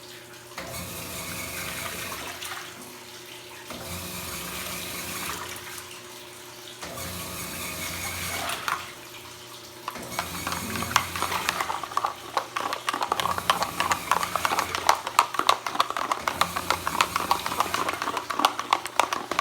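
Top-loading washing machine agitating a load in soapy water: the motor hums in strokes of about three seconds with short pauses between them. About ten seconds in, the water starts sloshing and splashing more loudly.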